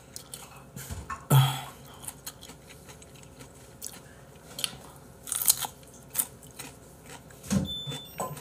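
Raw carrot stick being bitten and chewed close to the microphone: a run of irregular crisp crunches, the loudest bite about a second in.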